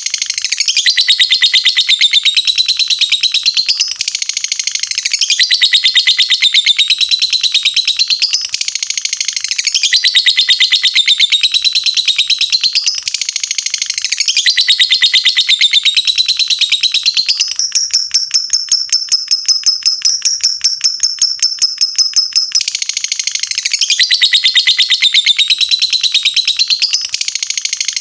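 Lovebird's long 'ngekek' chatter: a loud, very rapid string of high notes in repeated phrases of about four seconds each. About two-thirds of the way in comes a steadier, higher-pitched trill lasting about five seconds.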